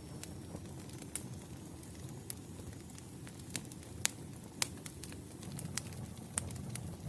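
Wood campfire burning: a steady low rumble of the flames with irregular sharp crackles and pops of the burning logs, two of them louder about four seconds in.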